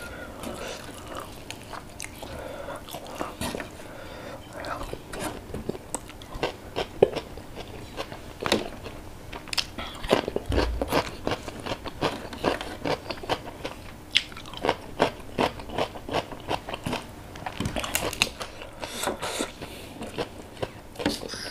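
Close-miked chewing and crunching of crispy fried fish and rice eaten by hand, with many sharp crunches that come thicker in the second half.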